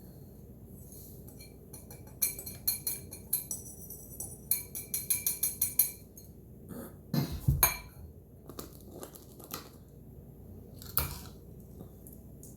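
Utensil tapping against a glass mason jar while the jar is filled with powdered detergent: two runs of quick ringing clinks, a few heavier knocks about seven seconds in, and one more clink near the end.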